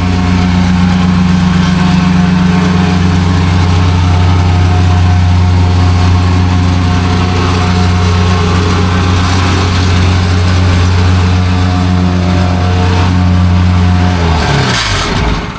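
Vibratory plate compactor running loud and steady as it compacts a gravel base. Near the end its engine is shut off and runs down with a falling pitch.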